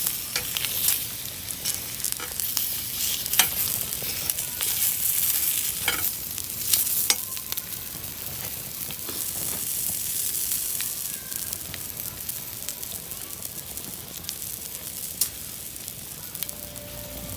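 Sausages sizzling over a wood fire: a steady hiss with frequent sharp pops and crackles.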